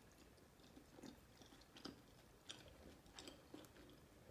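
Faint, close-miked chewing of a bite of sauce-coated boiled potato, with soft wet mouth clicks scattered irregularly through it.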